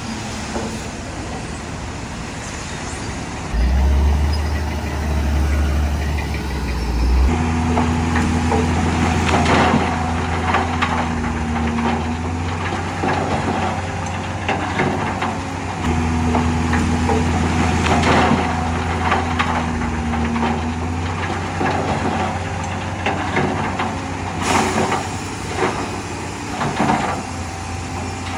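Heavy diesel earthmoving machinery running under load, its engine a steady low drone, with repeated clanks and knocks of metal and soil from about eight seconds in.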